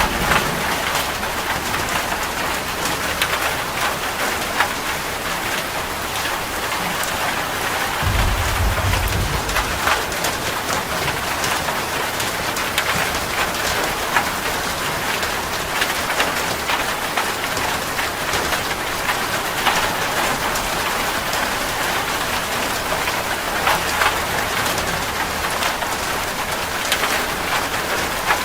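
Steady rain falling, with many individual drops tapping sharply on a surface close by. A short low rumble comes about eight seconds in.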